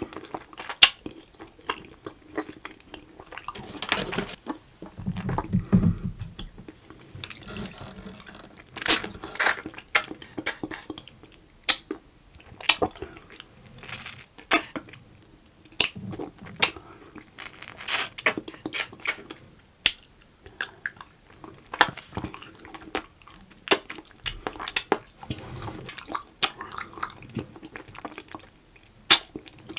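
Close-miked wet, sticky chewing and mouth smacking of someone eating gooey edible slime candy, with many irregular sharp clicks.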